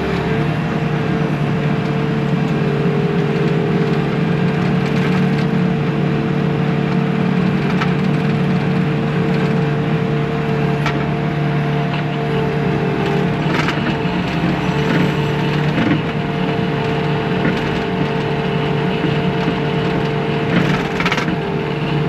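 Bobcat T630 compact track loader's diesel engine running steadily under load with a steady hydraulic whine, while its bucket scrapes and digs into hard ground. Scattered sharp cracks and crunches come from dirt and stones breaking under the bucket edge.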